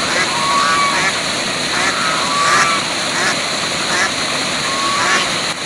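Waterfall rushing steadily, with a series of short bird calls over it, about one every half second to second.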